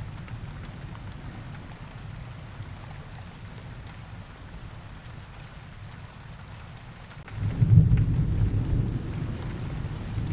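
Rain ambience: a steady rain hiss over low rumbling thunder, with a louder roll of thunder swelling up about seven seconds in.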